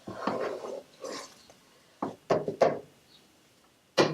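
Kitchen utensils scraping and knocking while cooking: a short rustling scrape, then a few sharp knocks about two seconds in.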